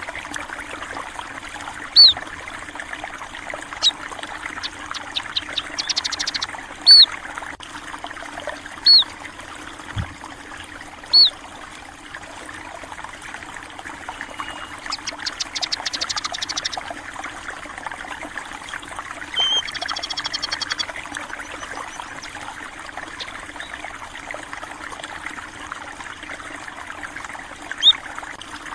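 Steady trickling and gurgling of a flowing stream, with short high bird chirps every couple of seconds and three quick chattering trills about a quarter, half and two-thirds of the way through.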